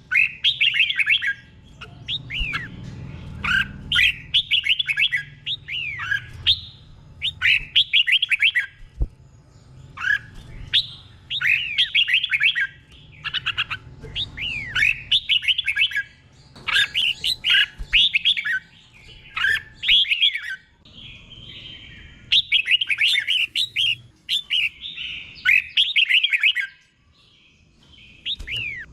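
Red-whiskered bulbul singing: short, rapid phrases of falling whistled notes, repeated every second or two with brief pauses between.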